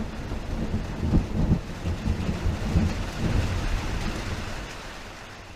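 Steady rain with low rolling thunder rumbles, fading out near the end.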